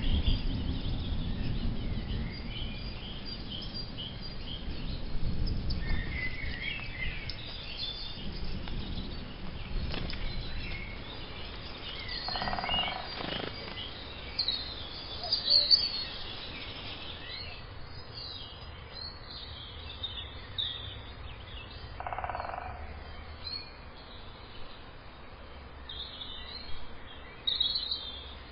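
Small birds chirping and calling, with many short high chirps throughout. A low rumble sits under them for the first several seconds and then fades.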